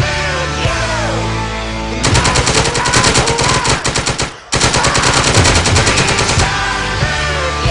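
Rapid automatic gunfire in two long bursts, each about two seconds long, with a short break between them, over music.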